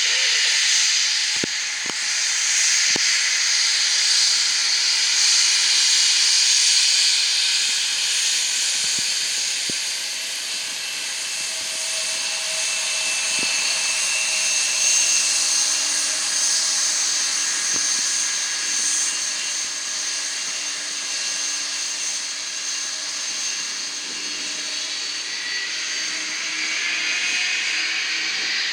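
Jet aircraft engines running: a steady high hiss with thin whining tones, loudest in the first third.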